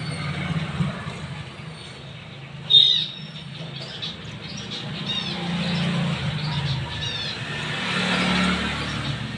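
Small birds chirping in short, quick downward-sweeping calls, the loudest a sharp chirp about three seconds in, over a steady low background hum.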